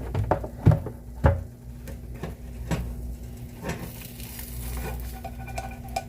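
Spatula knocking and scraping against a frying pan as a pancake is flipped: several sharp knocks in the first second and a half, then softer taps, over a faint sizzle of the pancake frying in oil.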